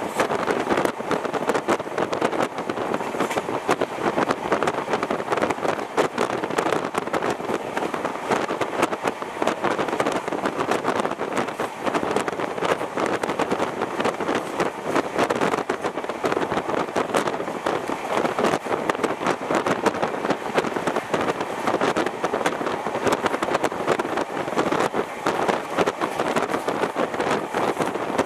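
Fast train running at speed, heard from its window: a steady rush of wheel-on-rail rumble and wind noise on the microphone, with frequent small clicks and rattles.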